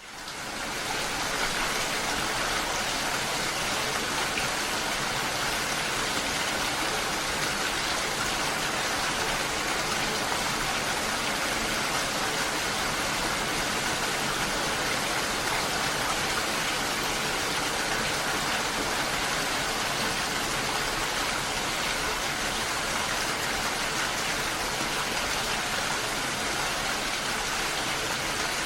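Steady, even noise of falling or running water, fading in over the first second.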